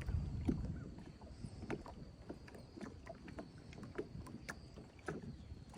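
Quiet ambience in a small fishing boat: a low, even rumble of wind and water, louder in the first second, with scattered small clicks and knocks.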